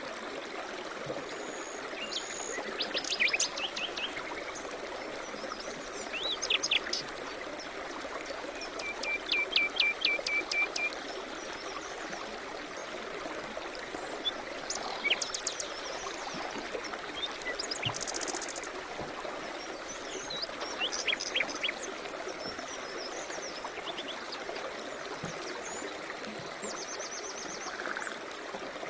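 Steady running water of a stream, with various songbirds chirping and singing over it in short phrases every few seconds.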